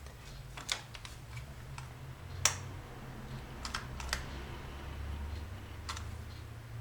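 A handful of light, separate clicks and taps from handling the glue gun and felt pieces at a craft table, the sharpest about two and a half seconds in, over a faint low hum.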